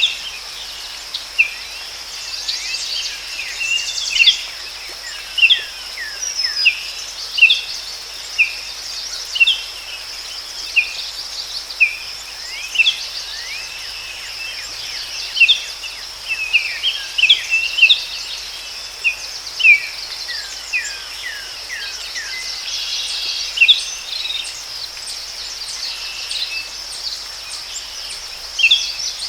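Forest ambience: a steady high-pitched insect drone with many short, falling bird chirps repeating every second or so.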